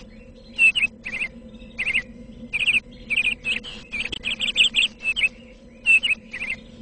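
Small birds chirping: short, quick chirps that come in little clusters again and again, over a faint steady hum.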